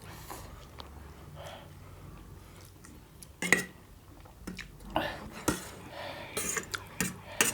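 Utensils and food clinking and scraping against dishes while eating: scattered sharp clicks, the loudest about three and a half seconds in, with a quicker run of clicks near the end.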